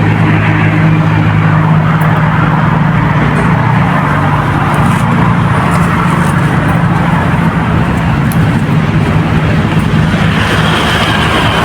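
Steady engine noise: a motor running continuously with a low hum under a broad rushing noise.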